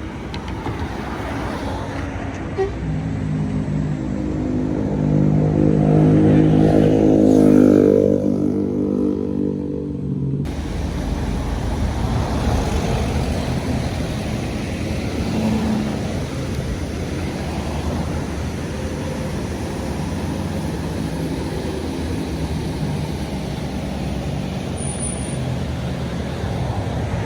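A heavy road vehicle's engine, most likely a bus, passes close with a loud droning note that rises slightly in pitch before it fades. About ten seconds in this gives way to steady traffic and road noise.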